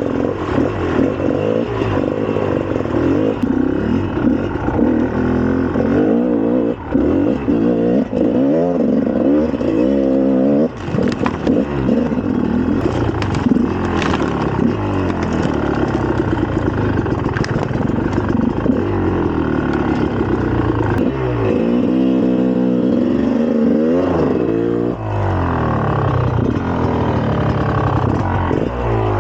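2004 GasGas EC300 two-stroke single-cylinder dirt bike engine revving up and down as it is ridden, the pitch rising and falling with the throttle, with a few sharp clicks.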